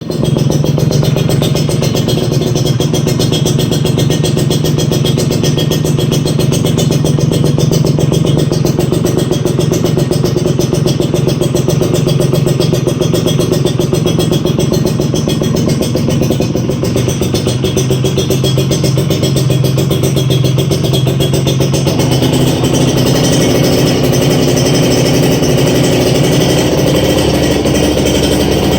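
Kawasaki Ninja 150 RR two-stroke single running steadily through a TIGA aftermarket exhaust, with a fast, even pulse; its note shifts about twenty-two seconds in.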